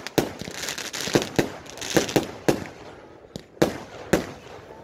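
Aerial firework shells bursting in a quick string of about ten sharp bangs, with hiss and crackle between them for the first couple of seconds. There is a short lull, then two louder bangs near the end.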